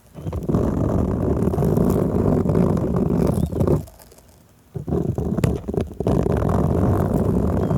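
Hands rubbing and massaging stickers stuck on a microphone, giving a close, muffled rumbling scrape in two long bouts with a short pause about four seconds in.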